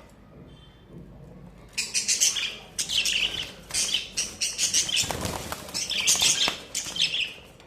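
Budgerigars chirping and chattering in a loud, busy burst that starts about two seconds in and dies down near the end, with flutters of wings mixed in.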